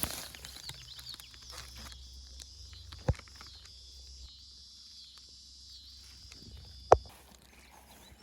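Steady high-pitched insect buzzing, as from crickets in summer brush, that cuts off about seven seconds in. Rustling and footsteps through the brush come in the first couple of seconds, and two sharp knocks fall about three and seven seconds in, the second the loudest.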